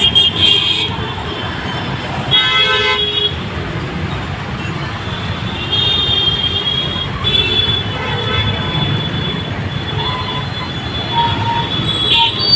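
Road traffic running steadily, with vehicle horns honking several times: a short blast at the start, a longer one a couple of seconds in, and another about six seconds in.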